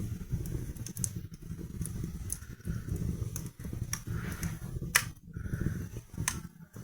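Wood fire burning in a fireplace: a low steady rumble of flames with scattered sharp crackles and pops, the loudest about five seconds in and another a second later.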